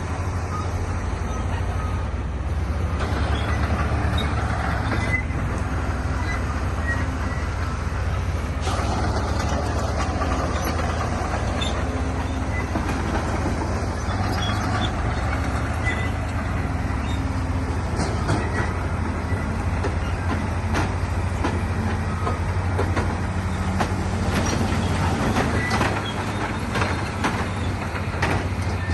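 Bulldozer's heavy diesel engine running steadily under load, with scattered clanks and knocks from steel tracks and pushed rock.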